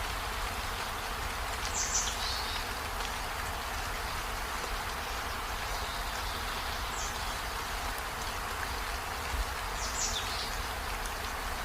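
Steady rainfall hissing, with a few short high chirps that fall in pitch, about three times.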